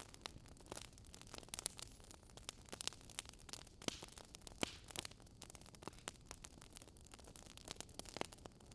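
Wood fire crackling in a fireplace: faint, irregular sharp pops and snaps over a soft low rumble.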